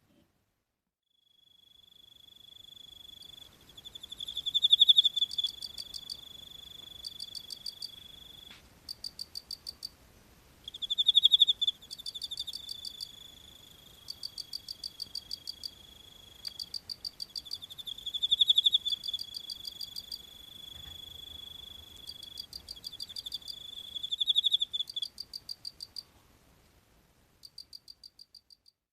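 Crickets chirping: one holds a steady high trill that swells loud four times, about every six or seven seconds, while others give short trains of rapid pulsed chirps. The trill stops a few seconds before the end, leaving only the pulsed chirps.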